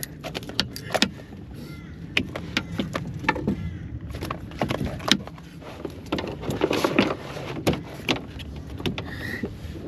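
Irregular clicks and knocks from handling a freshly caught fish and gear in a canoe, over a steady low rumble.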